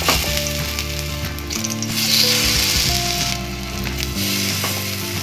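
Cabbage and gram-flour tikkis frying in medium-hot oil in a pan, sizzling steadily, louder for a moment about two seconds in.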